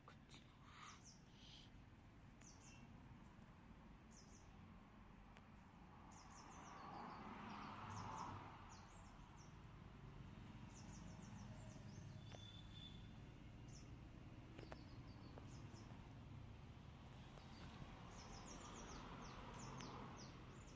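Faint bird chirping: many short, high chirps repeating on and off over a low background hum. A soft swell of rustling noise comes about a third of the way in and again near the end.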